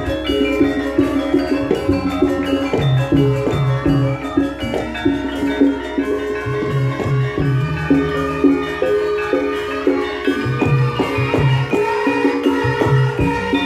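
Javanese gamelan ensemble playing a lengger gending: rows of struck bronze metallophone tones in a steady repeating pattern, with low pitched drum or gong strokes underneath.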